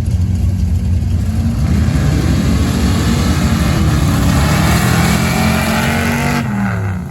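Two square-body Chevy trucks drag racing at full throttle, the engine noise building through the run and dropping away suddenly about six seconds in as they lift off.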